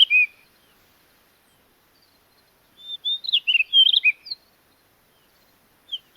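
Blue rock thrush song: short phrases of quick whistled notes sliding up and down, the end of one phrase at the start, a second phrase of about a second and a half after a two-second pause, and a third beginning at the very end.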